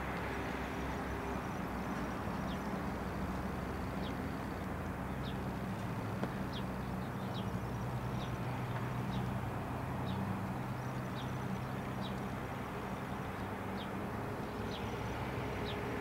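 A bird chirping repeatedly, short high chirps about once a second, over a steady low hum and rush of outdoor background noise.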